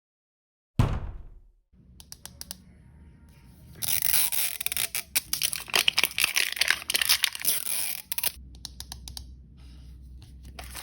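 A single sharp hit just under a second in, then a plastic blind bag being torn open and crinkled: scattered crackles, a loud stretch of tearing and crumpling in the middle, and softer crinkling to the end.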